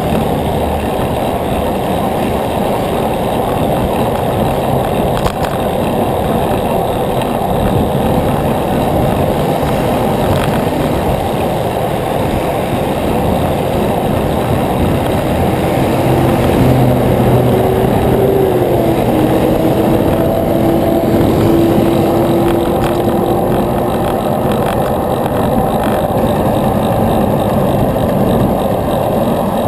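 Wind rushing over the microphone of a bicycle ride camera while riding. A little past halfway, a passing vehicle adds a faint hum that drops in pitch as it goes by.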